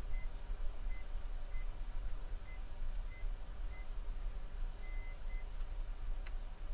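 Short electronic beeps at one high pitch from bench electronics-repair equipment, about eight of them at irregular spacing, one near the five-second mark held a little longer, over a steady low hum.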